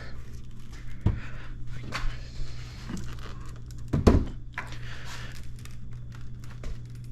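Lego plastic hive boxes being handled and set on one another: scattered light knocks and rustling, with one louder knock about four seconds in, over a steady low hum.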